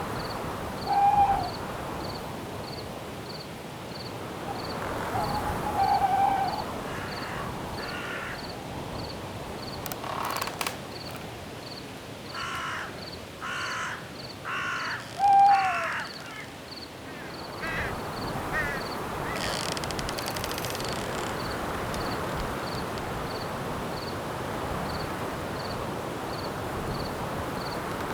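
Night forest ambience: a steady hiss of wind with crickets chirping in an even repeating pulse, an owl hooting three times, loudest about halfway through, and a bird cawing several times in the middle.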